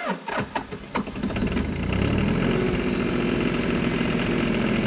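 Diesel engine of a 1985 John Deere 1050 tractor running. A few sharp clicks come first, then the engine note builds over the first couple of seconds into a steady run, and it cuts off suddenly at the end.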